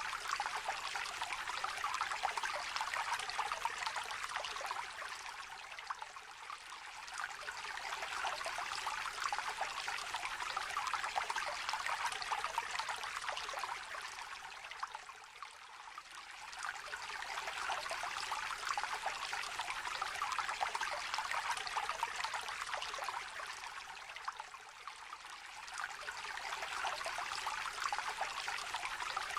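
A small stream trickling over shallow water, a steady babbling rush that eases off briefly about every nine seconds, three times.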